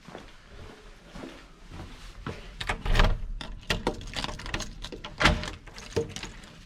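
A run of knocks and clunks of things being handled, loudest about three seconds in and again just past five seconds.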